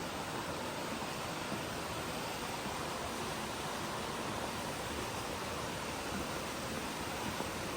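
Steady rush of a fast-flowing burn or waterfall, an even hiss of water without pause.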